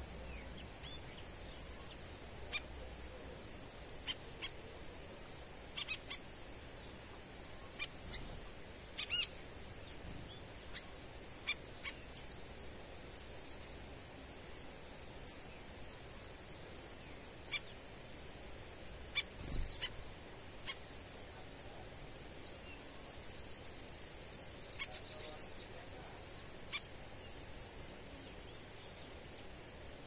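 Wild birds calling: scattered short, high chirps throughout, with one rapid trill of quickly repeated notes lasting a couple of seconds, about three-quarters of the way in.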